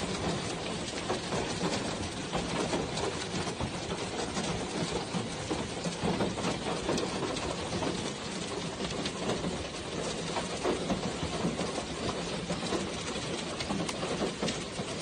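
Heavy rain pouring down, a dense steady hiss of countless drops.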